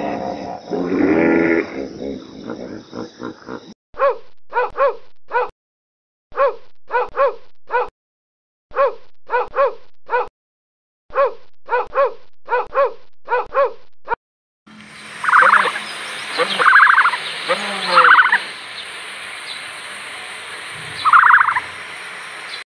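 A hippopotamus calling with its mouth wide open, the call rising in pitch about a second in. Then a small dog barks in quick clusters of three or four high yaps, again and again for about ten seconds. After that comes a steady hiss with four short, louder calls.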